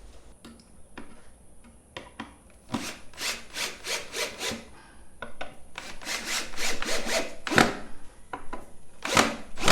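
A hand saw cutting wood: runs of quick, even strokes, with two louder strokes near the end.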